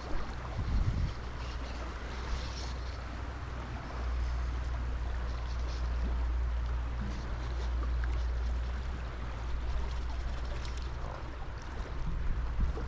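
Wind buffeting the microphone as a low rumble that swells and eases, over the steady rush of river water.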